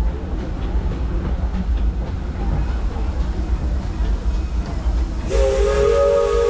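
Disneyland Railroad steam train running on the track, a steady low rumble heard from aboard. About five seconds in, the locomotive's steam whistle starts to blow, a chord of several steady tones.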